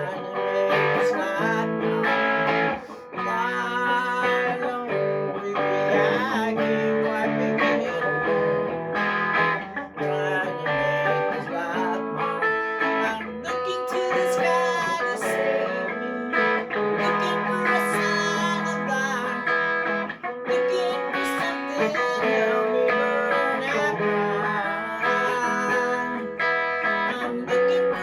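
Guitar music, plucked and strummed with many quick notes, playing steadily.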